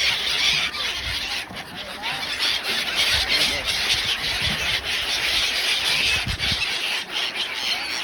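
A large flock of migratory birds calling together: a dense, continuous, high chattering din with no single call standing out.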